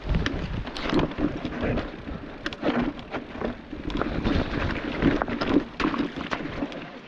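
Electric mountain bike rattling and clattering over a rough, rocky trail, with many irregular knocks and wind rumbling on the camera microphone.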